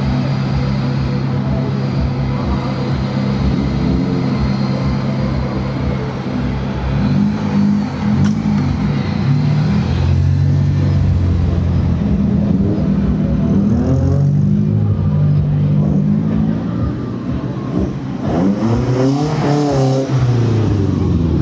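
Classic rally car engine idling steadily, then blipped up and down in revs several times. Near the end an engine rises and falls in pitch as a car drives past.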